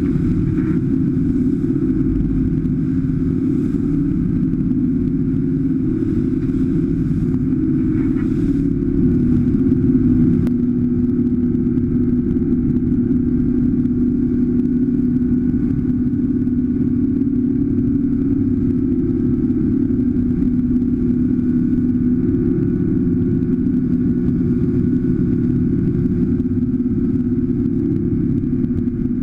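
Engine running steadily with a constant low drone, swelling slightly about ten seconds in.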